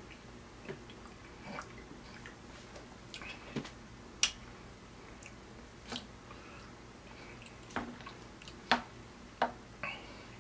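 Close-up eating sounds: wet chewing and lip smacking of saucy steak and baked beans, with scattered sharp clicks and scrapes of a plastic spoon against the plate, the loudest about four seconds in and twice near the end.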